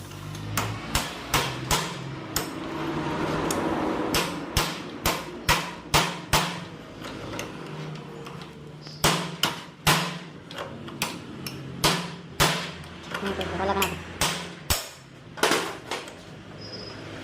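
Repeated hammer blows while dismantling a Hero Splendor engine, about two strikes a second, in three runs with short pauses between them.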